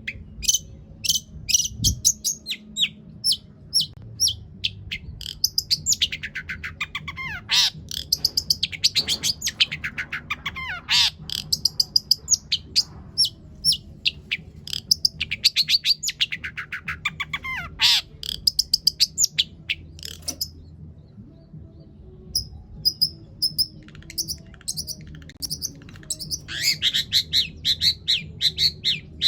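Long-tailed shrike (cendet) singing a long, varied song: rapid strings of sharp high chirps broken by several falling trills, with a brief pause about two thirds of the way through. The song mixes in mimicked calls of other birds.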